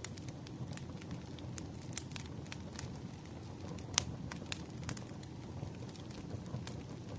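Wood fire crackling: irregular sharp pops and snaps over a low, steady rumble of the flames, with one louder pop about four seconds in.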